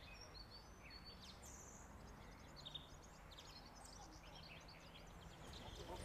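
Near silence outdoors: faint birds chirping and twittering now and then over a low steady hum.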